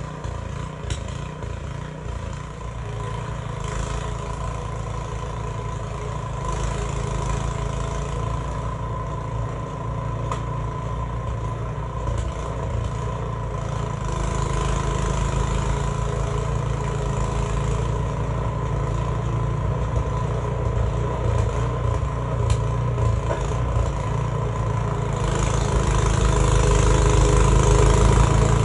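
Gasoline snowblower engine running steadily under load while clearing deep snow, growing louder near the end.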